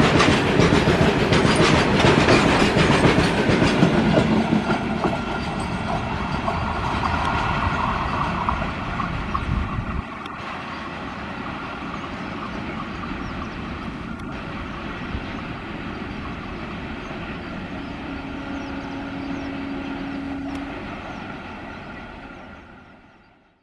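Goods train of high-sided open wagons rolling past close by, the wheels clattering over rail joints. About ten seconds in it drops suddenly to a quieter rumble as the brake van at the tail of the train draws away, and the sound fades out near the end.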